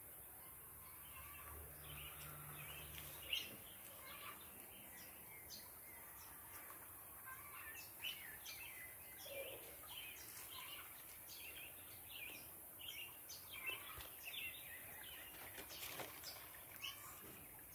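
Faint small birds chirping repeatedly, many short calls one after another, over a steady hiss of background noise. One short tap about three seconds in.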